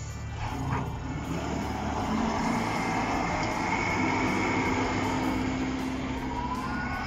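Road vehicle noise: engine and tyre sound of traffic with a steady hum, and a small knock about a second in.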